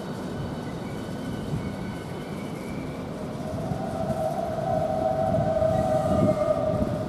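Southeastern Class 395 electric multiple unit creeping into the platform to stop, with a steady rumble. A high steady whine comes in about halfway and grows louder until near the end.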